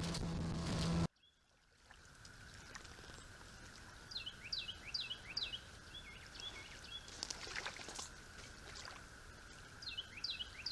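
A motor hums steadily for about a second and cuts off suddenly. Then, over quiet outdoor ambience with a faint steady high hum, a bird sings two short runs of quick, repeated, high chirping notes, the second near the end.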